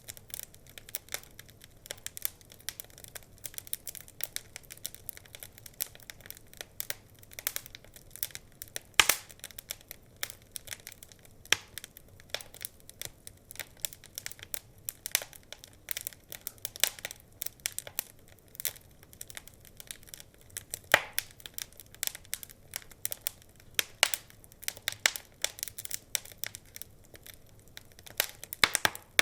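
Wood fire burning in a fireplace: a constant irregular crackle of small snaps over a faint hiss, with a few louder pops.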